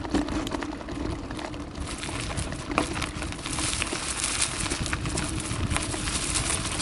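Carraro Big 827 mountain bike rolling over a rough forest trail: continuous tyre noise on dirt, full of quick clicks and rattles from the bike over bumps.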